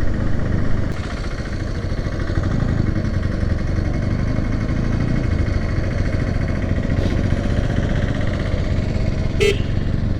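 Motorcycle engine running steadily under way, with wind noise on the mic. A short horn beep sounds near the end.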